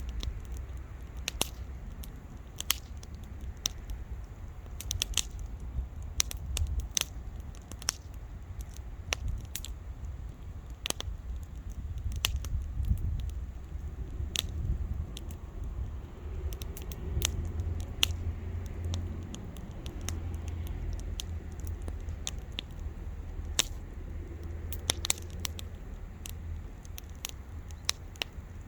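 Wood fire crackling and popping: sharp irregular snaps, some louder than others, over a steady low rumble of the burning.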